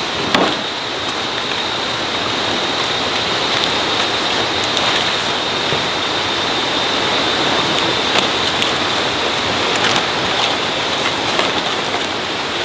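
Steady rain, an even hiss with scattered light taps, under a thin high steady whine.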